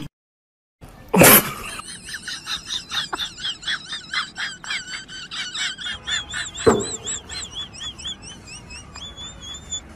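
A small bird chirping over and over: a long run of short high notes that rise and fall, several a second. A single sharp sound comes about a second in, and another around two-thirds of the way through.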